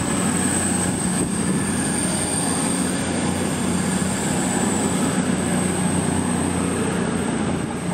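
CrossCountry diesel multiple unit running past along the platform: a steady rumble of engines and wheels with a constant high whine over it.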